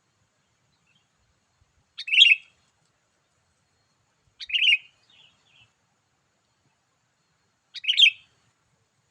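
Sooty-headed bulbul (kutilang) calling: three short, bright calls a few seconds apart.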